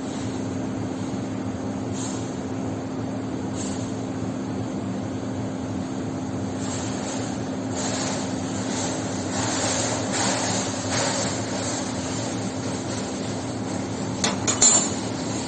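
CNC metal-cutting machine running: a steady hum with short bursts of hissing that grow longer in the middle stretch, and a few sharp clicks near the end.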